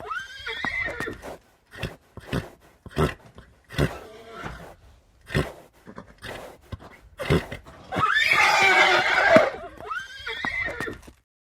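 Horse whinnying: one long neigh about eight seconds in, followed by a shorter, weaker one, with short sharp sounds in the seconds before.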